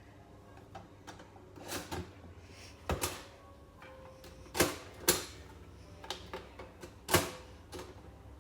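Sharp knocks and clicks from handling a toaster, about five of them spread out, over a faint steady hum.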